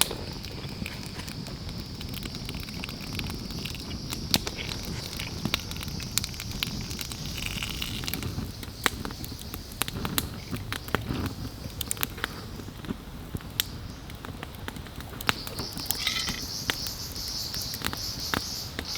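Campfire burning, with scattered sharp crackles and pops of the wood. A steady high-pitched drone runs behind it and grows stronger near the end.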